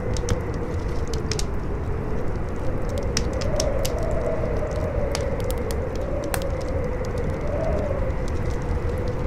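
Howling wind, a wavering whistle that slowly rises and falls in pitch over a steady rush, with the sharp crackles and pops of a burning fire scattered throughout.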